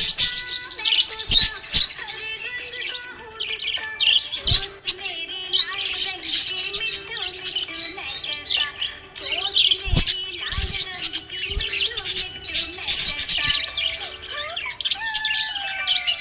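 Budgies chirping and chattering continuously in quick, high chirps. A few dull thumps come through, about four seconds in and again around ten seconds.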